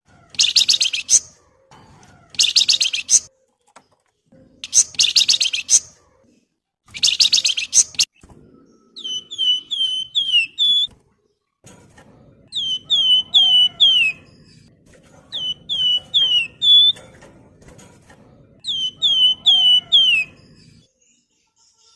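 Javan fulvetta (flamboyan, wergan Jawa) singing: four short, rapid buzzy chatters about two seconds apart, then clear falling whistled notes in runs of four or five, repeated about four times.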